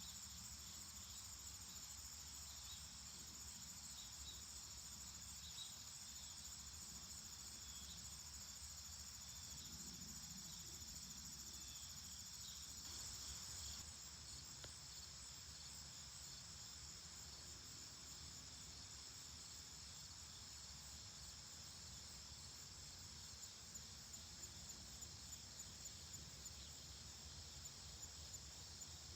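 Faint, steady chorus of crickets and other insects, a continuous high trill, with a run of faint regular ticks near the end.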